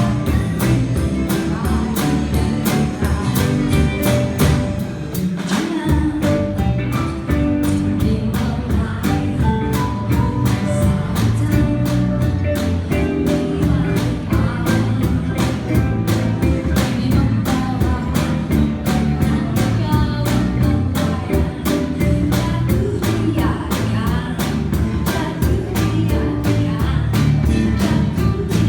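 Live band of piano, guitars, bass and drum kit playing a pop song with a steady beat, a woman singing over it.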